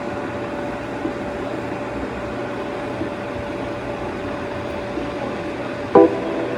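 Steady mechanical hum with a constant tone, like a running household appliance. Near the end a sharp strummed chord marks the start of reggae backing music.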